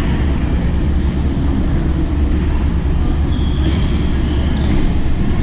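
A steady low rumble runs throughout, with a few sharp clicks of a badminton racket striking the shuttlecock about a second apart in the second half.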